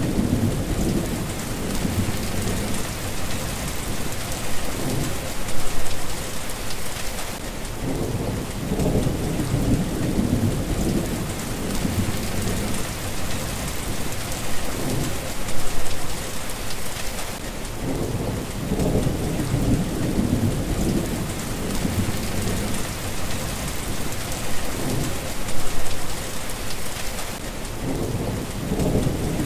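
Steady rain falling, with low rumbles of thunder swelling and fading roughly every ten seconds.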